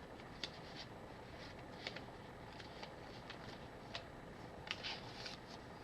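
Faint, scattered light clicks and rustles of small items being handled on a workbench, a few sharper ticks among them, over quiet room tone.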